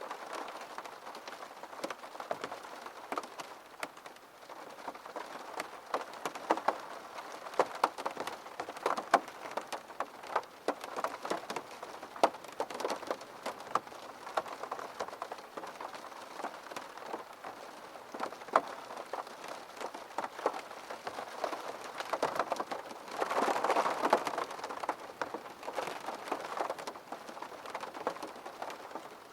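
Rain against a window: many separate drops ticking over a steady hiss, with a heavier wash of rain for a couple of seconds near the end.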